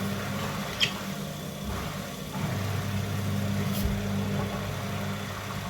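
Front-loading washing machine running a rinse tumble with its covers off: the drive motor and belt turn the drum with a steady hum, which stops briefly about a second and a half in and then starts again. Two short clicks are heard, one near the start and one a few seconds later.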